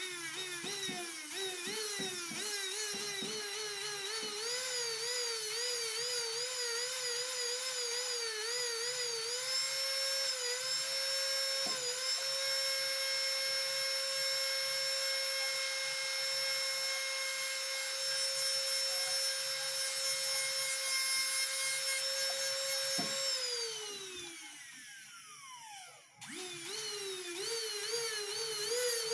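Small high-speed rotary tool, a jeweller's micromotor handpiece, whining, its pitch wobbling as it is pressed against the work and then holding steady. Near the end it winds down, stops briefly and spins back up.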